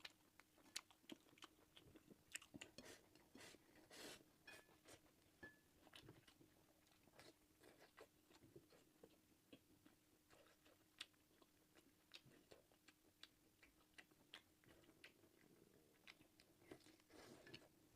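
A person chewing food: irregular soft clicks and smacks of the mouth and bites, quiet, over a faint steady hum.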